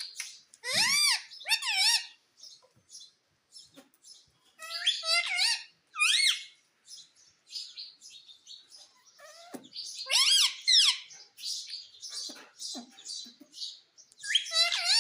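Pet parrot chirping and calling in short, pitch-gliding bursts. Louder clusters of calls come about a second in, around five to six seconds in and about ten seconds in, with softer chirps between.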